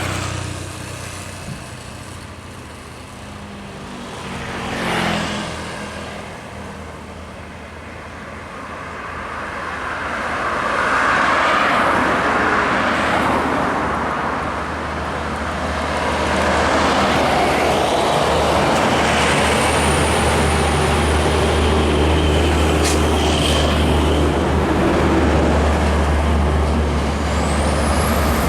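Scania bus diesel engine running close by amid road traffic. One vehicle passes about five seconds in, then the noise builds from about ten seconds into a steady low engine drone that holds to the end.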